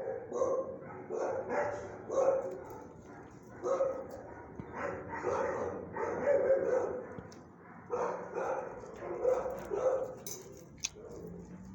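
Dog barking repeatedly in irregular runs of short calls, easing off near the end.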